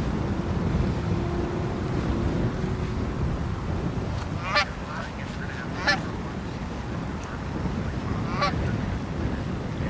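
A bird calling three times in short, harsh calls, about halfway through, again a second later and once more near the end, over a steady low rumble of wind on the microphone.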